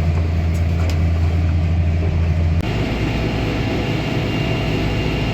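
Tractor engine running steadily with a strong low drone, heard from the cab while spreading fertilizer. About halfway through the drone drops away abruptly, leaving a weaker hum with a thin high tone.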